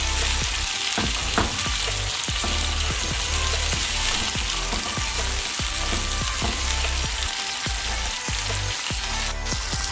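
Diced tomatoes sizzling steadily in hot oil in a non-stick frying pan, with a silicone spatula stirring and knocking against the pan now and then.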